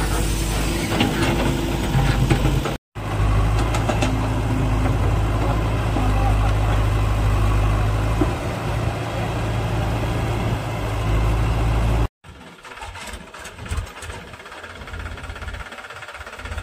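Heavy diesel engine running steadily at close range with a deep, even drone. After a cut about twelve seconds in, it gives way to a quieter, uneven engine rumble.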